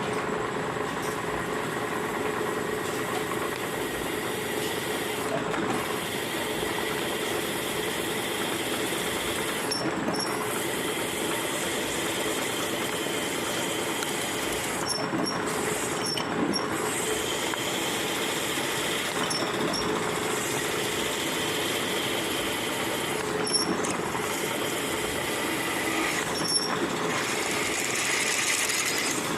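Milling machine running steadily, a continuous mechanical hum with a steady tone through it and occasional light metallic chinks.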